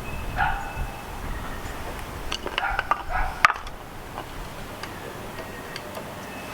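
Small metal and plastic parts and tools being handled: scattered clicks and light clinks, a quick flurry in the middle ending in one sharp click.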